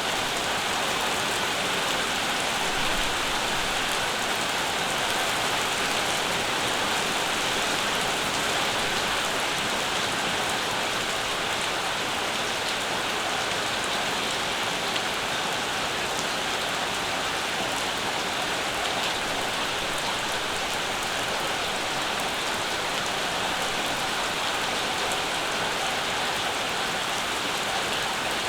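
Steady summer rain falling, an even hiss with small scattered drop ticks and no let-up or change in strength.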